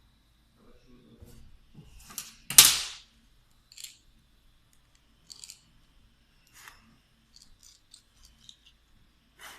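Metal tools and small parts being handled and set down, making clinks and knocks: one loud knock about two and a half seconds in, then scattered lighter clicks.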